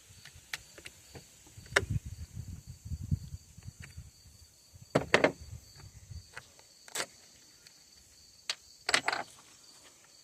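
Irregular clicks, taps and knocks of hand tools and plastic and metal parts being handled while the chainsaw is worked on, with the sharpest clicks about five and nine seconds in; the saw's engine is not running.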